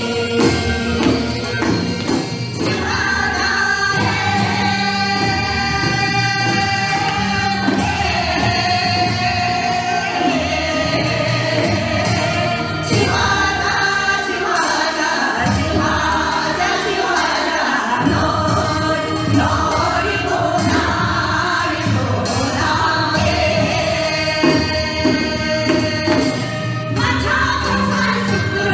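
Group singing of a Korean folk song, with long held notes that bend and change pitch every few seconds, over a steady drum beat.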